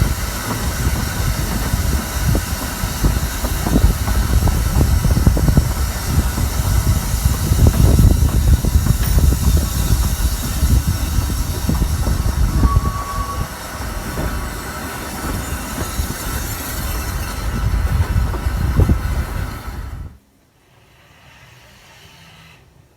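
Narrow-gauge steam train running, with steam hiss and rail noise under heavy wind buffeting on the microphone; the sound cuts off suddenly about 20 seconds in.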